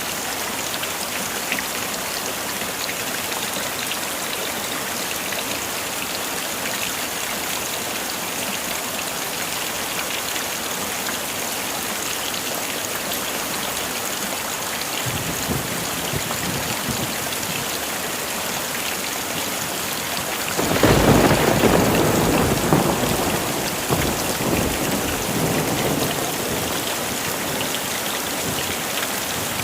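Heavy rain falling in a steady hiss. A faint low rumble of thunder comes about fifteen seconds in, then about twenty-one seconds in a sudden loud thunderclap that rolls on and fades over several seconds.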